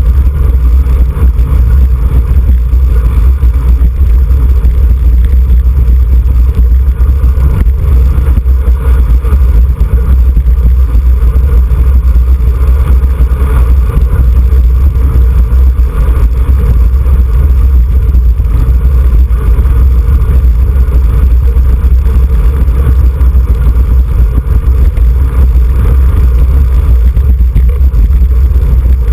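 Loud, steady wind rumble buffeting the microphone of a camera riding on a racing bicycle at speed, with a hiss of air and road noise above it.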